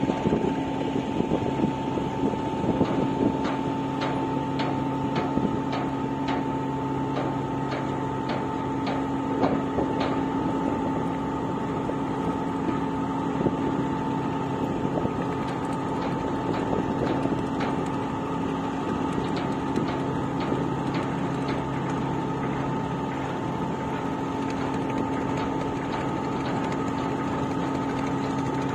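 River dredger's engine running steadily: a constant drone with a steady higher whine over it, with scattered clicks and knocks in roughly the first ten seconds.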